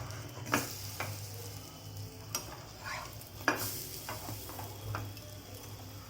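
Besan-battered bread pakoras sizzling steadily in shallow oil on a hot tawa, with a few sharp scrapes and clicks of a utensil against the pan as the pieces are turned.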